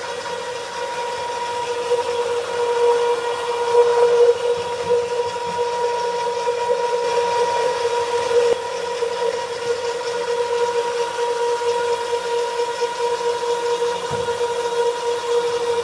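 Cleon Transformer stair-cleaning machine's motor running with a steady, even whine over a hiss.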